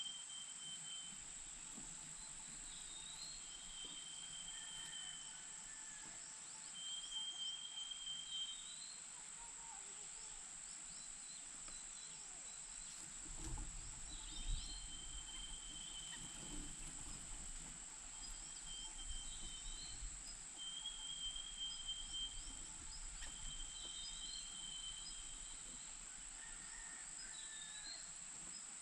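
Outdoor insect chorus: a steady high-pitched drone, with short, flat, high trills repeating every few seconds. A few low bumps come about halfway through.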